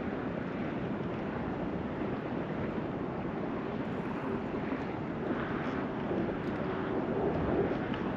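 Wind blowing across the microphone, a steady rushing noise that swells a little near the end.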